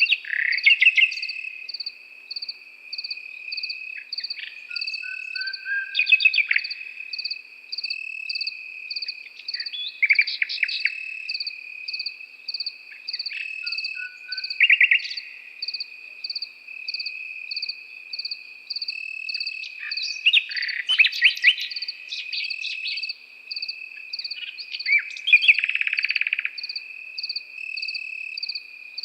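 Nightingale singing separate short phrases of fast trills and whistles every few seconds, over crickets: one steady continuous trill and a second one chirping in a regular pulse.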